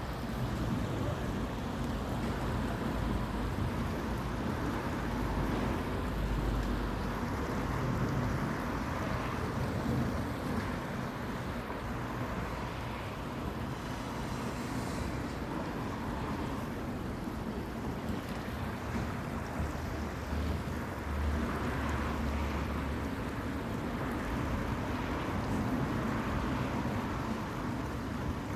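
Steady outdoor rushing noise, with low wind rumble on the microphone that swells a few times.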